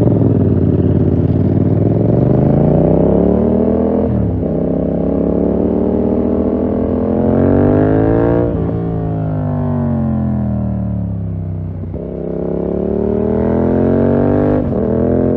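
2020 Yamaha MT-07's 689 cc parallel-twin engine through a full SC-Project 2-1 exhaust, revving up under acceleration. The revs drop sharply between gears about four seconds in, climb again, and fall away for a few seconds as the bike slows. They rise once more and drop suddenly near the end.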